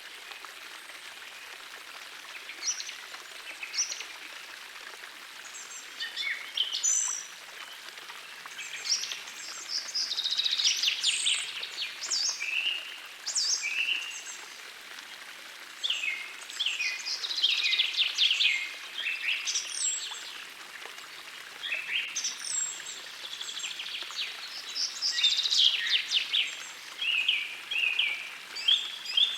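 Songbirds singing in short phrases of quick trills and down-slurred notes over the steady rush of a gentle forest stream. The birds come in after a few seconds and grow busier toward the middle and the end.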